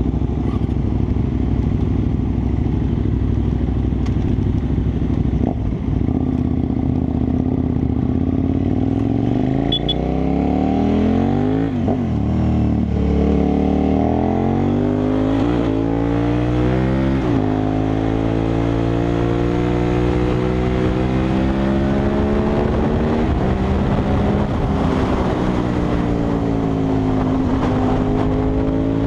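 KTM 990 SMR's V-twin engine pulling hard under the rider, revs climbing and dropping sharply with quick gear changes about halfway through, then holding and swelling and easing through bends.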